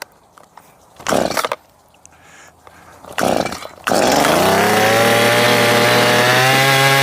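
Stihl MS210 two-stroke chainsaw: two short bursts as it is cranked or fires briefly, then it catches about four seconds in and runs, its pitch rising and then holding steady.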